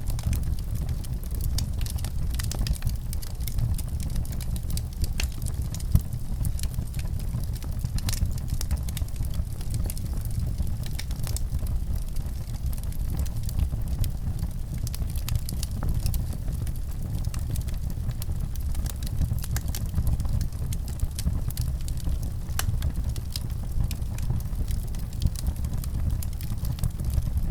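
Fire in a fireplace crackling: scattered sharp pops and snaps over a steady low rumble.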